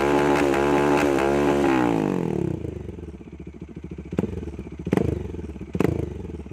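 Bajaj Dominar 400's single-cylinder engine through an SC Project open exhaust, held at high revs with a wavering note, then dropping back to idle about two seconds in. At idle, three sharp cracks come from the pipe: exhaust pops.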